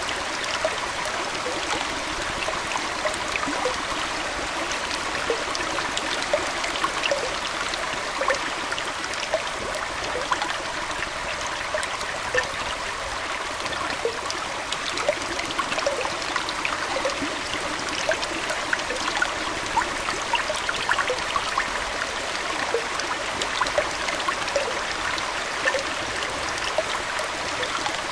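Aquarium water flowing in a steady trickle, dotted with many small splashes and droplet pops.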